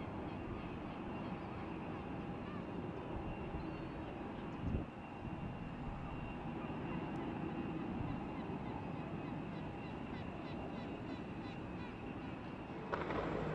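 Jet airliner engines running steadily, a constant rumble under a thin high whine, with one brief thump partway through. The engine sound steps up louder near the end.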